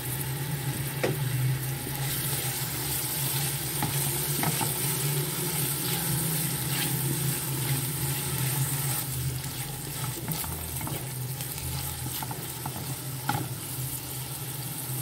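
Chopped tomatoes and green chillies sizzling in hot oil with browned onions as a spatula stirs them through the pot, with a few sharp taps of the spatula against the pot.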